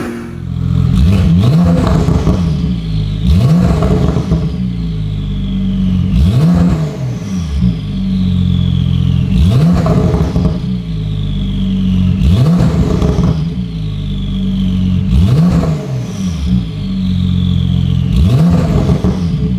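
Porsche 992 Carrera S twin-turbo flat-six, breathing through an IPE Innotech F1 exhaust with headers and no particulate filter, being revved over and over: each blip climbs in pitch and drops back to idle, about every two to three seconds.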